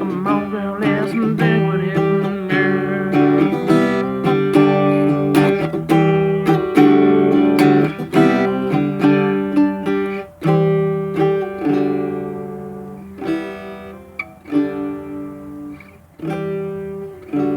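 Acoustic guitar playing an instrumental passage of plucked notes, growing quieter after the midpoint.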